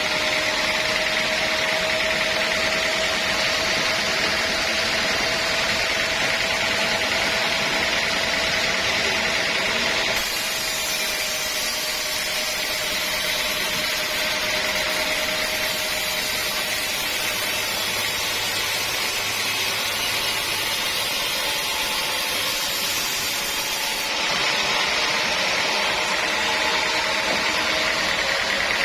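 Sawmill saw running steadily with a constant whine, its sound shifting abruptly about ten seconds in and again near the end.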